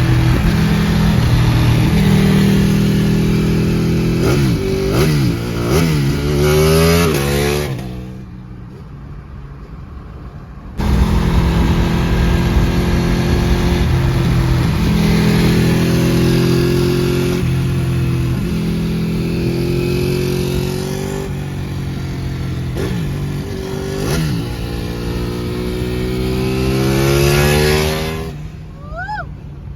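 Ducati Panigale 899's L-twin engine under hard acceleration, its pitch climbing and dropping several times as it revs and shifts. The loud engine sound drops away about eight seconds in and returns about three seconds later, then climbs once more near the end.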